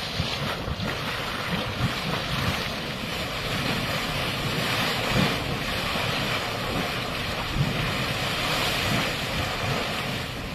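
A steady rushing noise with low, gusty rumbling underneath.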